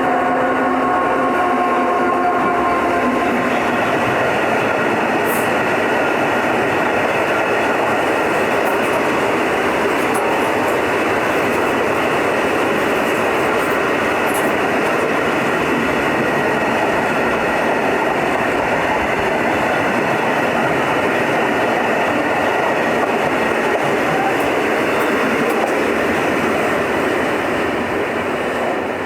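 A Class 66 diesel-hauled freight train passing. Steady tones sound over the rolling noise for the first few seconds, then a long, even rolling rumble of the wagons over the track follows, dropping away at the very end.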